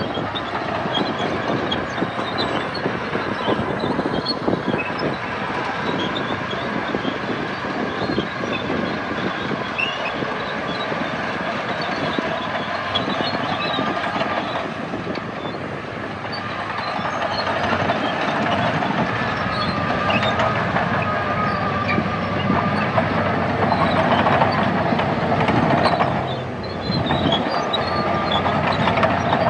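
Heavy diesel earthmoving machinery at work, its engine running under dense rattling and clanking. The sound drops briefly near the end, then picks up again.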